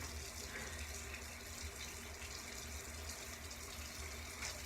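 Faint, steady hiss with a low hum under it, with no distinct event.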